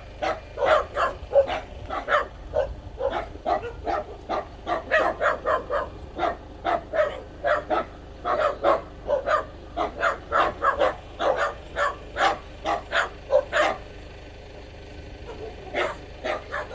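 A dog barking over and over in quick, short barks, about three a second, stopping for a couple of seconds near the end and then starting again.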